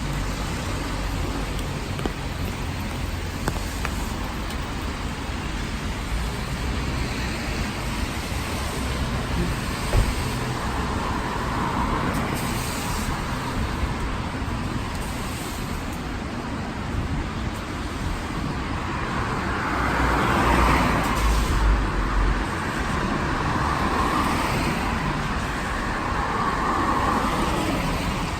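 Cars passing on a wet road, their tyre hiss swelling and fading three times over steady rain and traffic noise.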